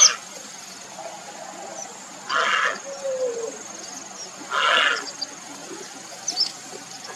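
Grey heron giving harsh, hoarse croaking calls, twice, about two seconds apart, each lasting about half a second.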